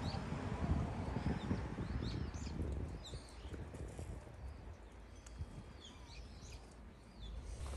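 Small birds chirping in short, scattered calls, over a low rumble that eases after the first few seconds.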